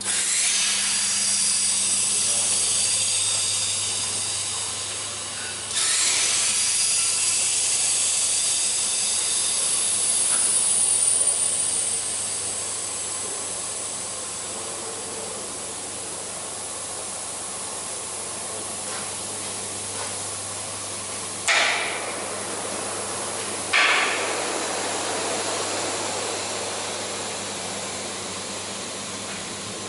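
Compressed air hissing through the valves and air hoses of a pneumatic frame press. It starts suddenly, comes again louder about six seconds in, then settles to a steady hiss. Two short sharp blasts of air come near the end.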